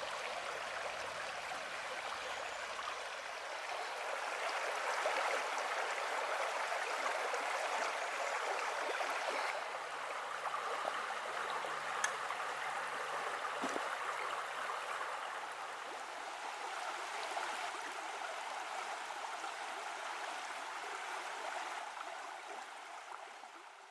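Creek water flowing, a steady rushing babble, with a single faint click about halfway through; it fades out near the end.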